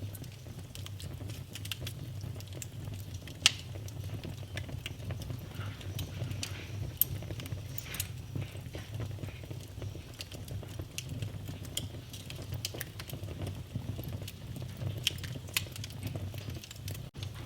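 Fire burning in a fireplace: irregular crackles and snaps over a steady low rumble. Two sharper, louder pops come about three and a half and seven seconds in.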